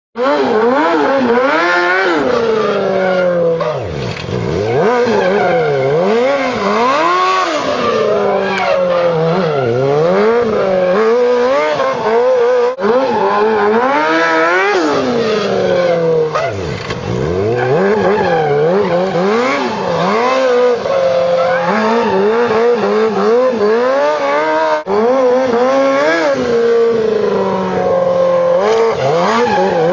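Sport motorcycle engine revving hard, its pitch climbing and dropping over and over every second or two as the throttle is worked through stunts. There are a few abrupt breaks.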